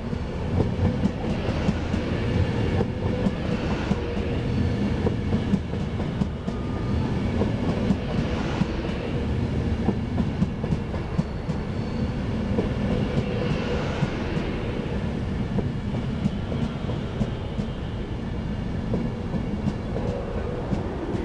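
Virgin Trains Class 390 Pendolino electric train running past on the adjacent track. Its wheels make a steady rumble on the rails, with scattered sharp clicks as they pass over rail joints. A swelling and fading rush of hiss comes about eight seconds in and again near fourteen seconds.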